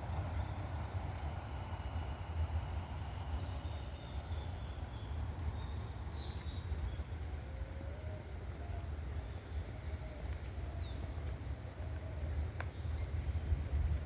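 Wild birds calling and chirping over a steady low rumble, a mix of short high chirps and a few longer lower notes in the middle.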